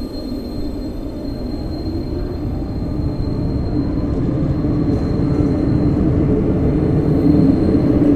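Renfe Cercanías electric commuter train running alongside the platform: a steady rumble that grows gradually louder, with a thin high whine that fades out about two-thirds of the way through.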